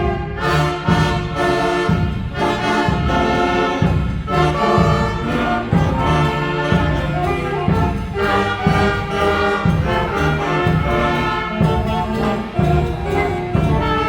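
Student concert band playing, with brass (trumpets and trombones) carrying the melody over a steady low rhythmic pulse.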